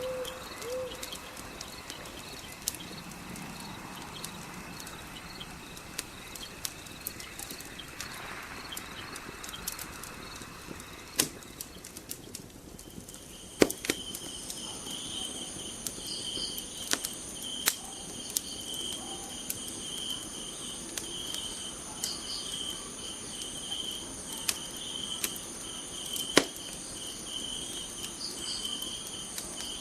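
Fire crackling with scattered sharp pops over a night ambience of crickets chirping; about halfway through, the insect sound turns into a pulsing, repeating chorus.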